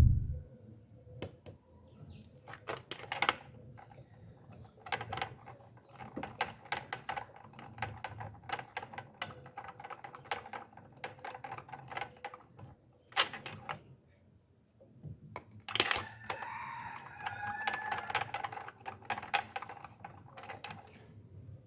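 Metal hand tools clicking and clinking on an engine while a spark plug is being removed: irregular sharp clicks and taps, some with a short metallic ring, with a brief pause partway through.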